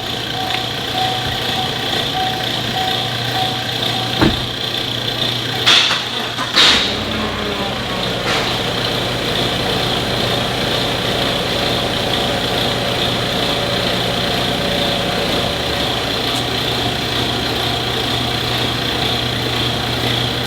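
Chevrolet Cheyenne pickup truck's engine running steadily, with a few sharp knocks or clicks about four to seven seconds in.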